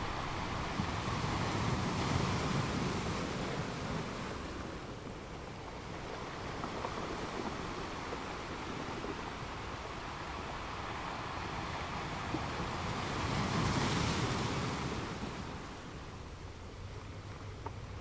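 Ocean waves: a steady rushing wash of surf that swells up twice, about two seconds in and again around fourteen seconds, then eases off near the end.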